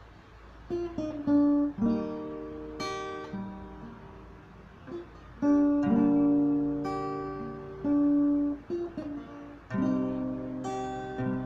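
Acoustic guitar intro: plucked and strummed chords that ring on, beginning about a second in.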